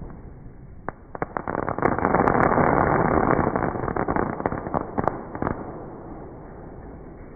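Fireworks crackling: a few sharp cracks about a second in, then a dense run of crackles and pops for about four seconds that dies away.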